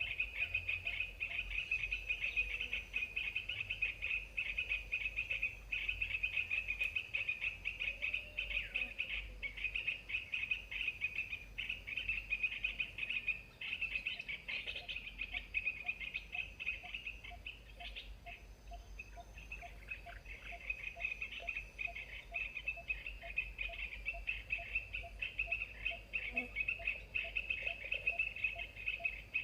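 Continuous rapid chattering bird calls, with a faint short low note repeating about twice a second in the second half.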